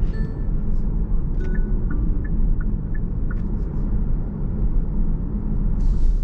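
Car interior on the move: steady low road and engine rumble. A few short electronic beeps at slightly different pitches come between about one and a half and three and a half seconds in.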